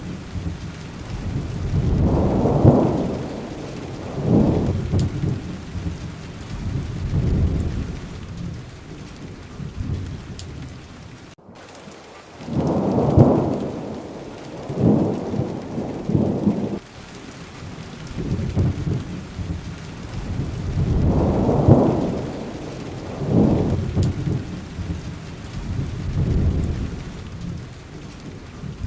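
Steady rain with low rolling thunder, rumbling in swells that rise and fade every few seconds, and a brief break in the sound about a third of the way in.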